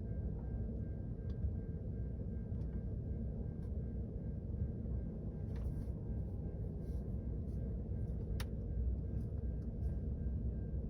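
Steady low rumble of a Ford F-150 pickup heard from inside its cabin, with a few faint clicks.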